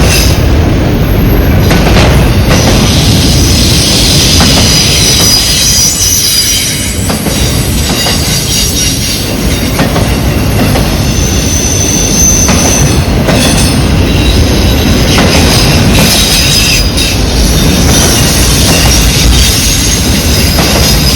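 A CN freight train's cars rolling past: a steady rumble with thin, high-pitched wheel squeal that comes and goes, and scattered clicks of wheels over rail joints.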